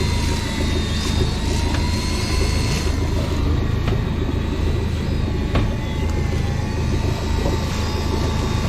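Fishing boat's engine running steadily: a deep low drone with a thin, slightly wavering whine above it.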